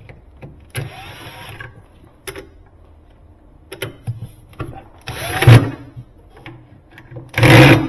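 Metal parts of a Sub-Zero refrigerator's door closer scraping and clicking as the closer is fitted back into the unit. There is a rasping scrape about a second in, scattered clicks, and two louder scrapes, one around five seconds in and the loudest just before the end.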